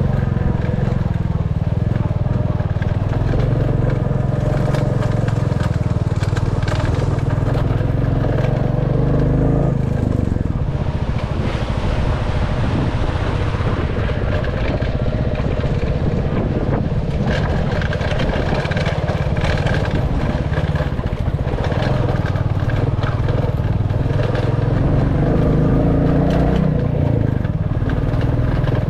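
Royal Enfield Classic 350's single-cylinder engine running under way, its engine note shifting a little as the speed changes. A hissier stretch of road or wind noise comes in about ten seconds in.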